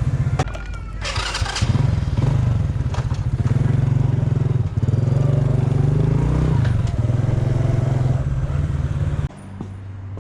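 Honda Super Cub's single-cylinder four-stroke engine running under way, its pitch rising and falling several times as it pulls, with a short hiss about a second in. The engine sound cuts off abruptly near the end.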